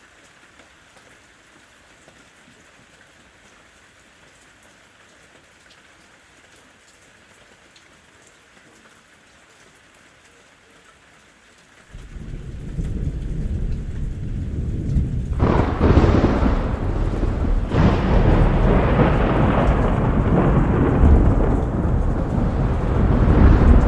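Steady light rain hissing, then about halfway through a loud thunder roll breaks in suddenly. It keeps rumbling over the rain, with heavier peals a few seconds later.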